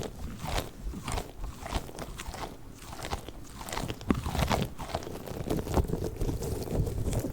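Squishy balls squeezed and kneaded close to the microphone, making a run of quick crackly, crunchy squishes. They grow denser and fuller from about halfway through.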